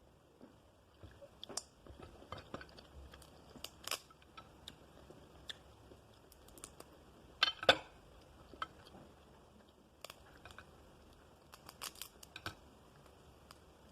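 Crab shell being cracked and picked apart by hand while eating: scattered small cracks and clicks, with the loudest, a close pair of sharp cracks, about halfway through.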